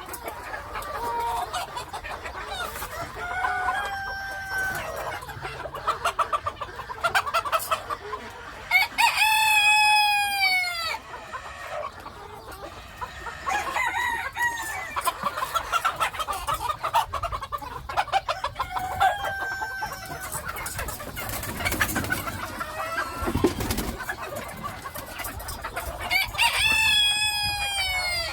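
Chickens clucking and calling continually, with a rooster crowing twice: once about nine seconds in and again near the end.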